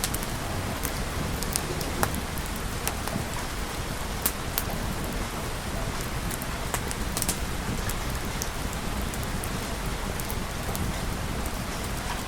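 Steady rain falling, with scattered sharp ticks throughout.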